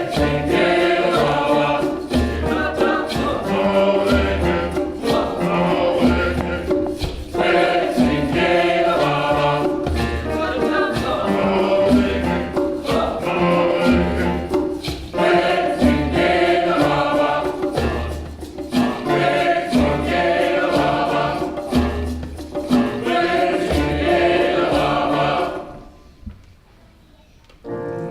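Large mixed choir singing an African song, with a regular low beat underneath. The song stops about 26 seconds in, and a short hush follows.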